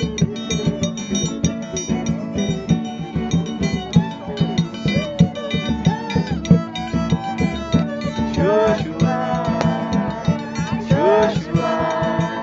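Live acoustic group music: guitar strumming over a steady, busy beat, with voices briefly singing out about eight and eleven seconds in.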